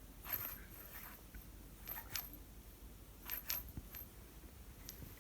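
A few faint, light clinks and rattles, scattered one or two at a time over several seconds.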